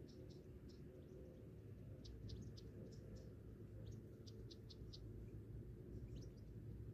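Faint, high chirps in short quick clusters, a few sliding in pitch, over a low steady rumble.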